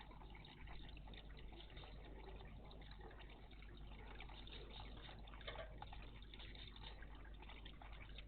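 Faint trickling and splashing water in a garden bird bath, irregular small splashes over a steady low hum.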